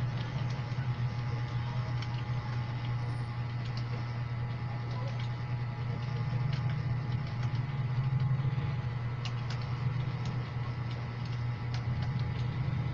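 Computer keyboard keys clicking irregularly as someone types, over a steady low hum.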